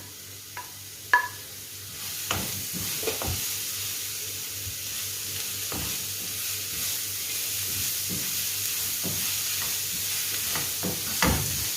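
Onions and ginger-garlic paste sizzling in hot oil in a frying pan while a spatula stirs, with scattered scrapes and knocks against the pan and a louder knock near the end. The sizzle rises about two seconds in as green chillies and curry leaves are added.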